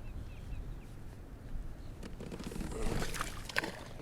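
Water splashing from about two seconds in, with a few sharp splashy clicks, over a low steady rumble.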